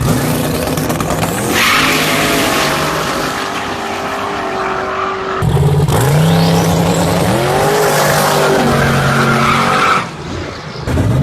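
Opel Kadett's 7.3-litre twin-turbo LS V8 running hard at high revs, its pitch rising and holding in steps, over a loud hiss with tyre squeal. The sound changes abruptly about five and ten seconds in.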